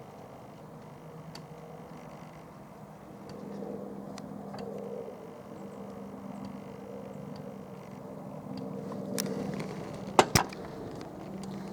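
Airbus H175 helicopter running at a distance, a steady hum with a low drone and a higher tone. Two sharp clicks come close together near the end.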